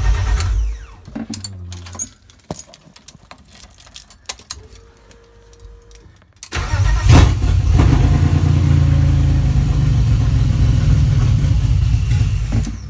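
BMW M52 inline-six engine on its first start after an automatic-to-manual swap: it runs, then dies about a second in. Clicks follow. About six and a half seconds in it is started again, catches and runs steadily, then shuts off near the end.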